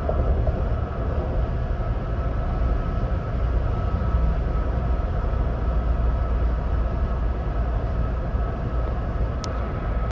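2026 Ford Bronco Badlands at highway speed: a steady low rumble of tyre and road noise with engine drone, and a faint steady whine above it. A short tick sounds near the end.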